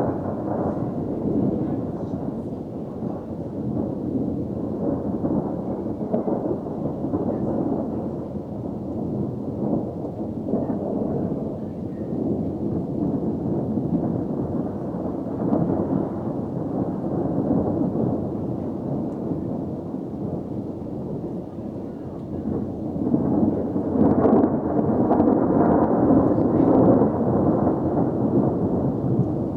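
Thunder rolling and rumbling almost without pause from an intensely active thunderstorm, swelling louder again near the end.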